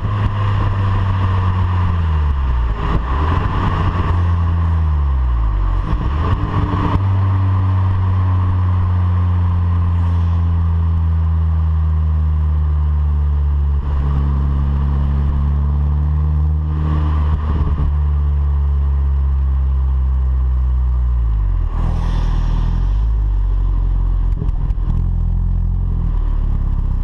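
VW Polo 9N3 GTI's turbocharged 1.8-litre four-cylinder through its stock exhaust. Engine speed falls and climbs again twice in the first several seconds, then holds nearly steady for a long stretch, and falls back near the end to a low, steady run.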